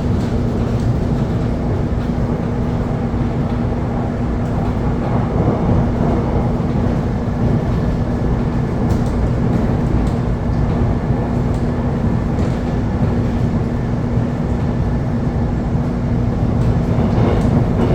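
Commuter train running steadily along the track: a continuous low rumble with a steady hum.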